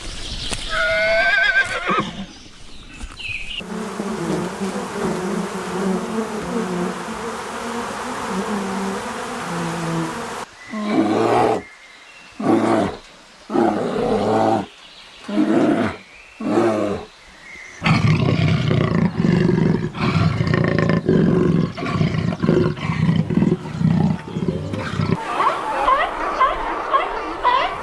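A succession of animal calls: a short pitched call, then a long low call, five separate calls of about a second each, another long low call, and quick high chirps near the end.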